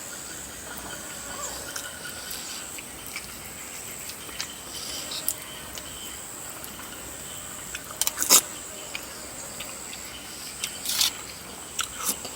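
A person eating chicken feet and noodles in coconut curry: a few short, sharp eating noises about eight, eleven and twelve seconds in, over a faint steady high-pitched hum.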